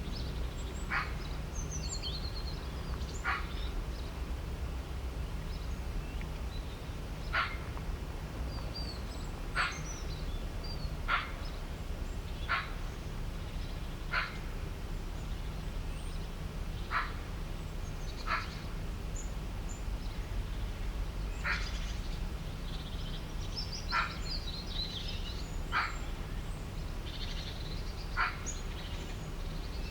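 Animal calls: a short, sharp call repeats every one to three seconds, with higher bird chirps and twitters scattered between, over a steady low rumble.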